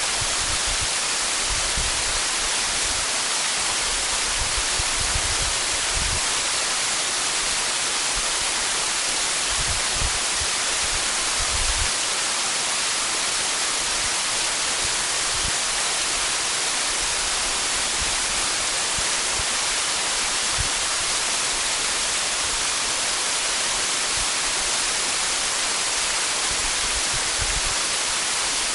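Waterfall pouring: a steady, even rush of falling water, with a few brief low bumps.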